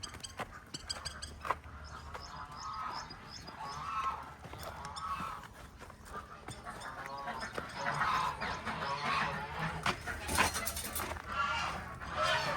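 Geese honking repeatedly, the calls coming closer together and louder in the second half, with high quick chirps from small birds in the first second or two.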